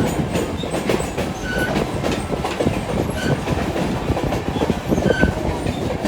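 Passenger train in motion heard from on board: a steady rumble with the wheels clattering over the rail joints, and a few brief high squeaks.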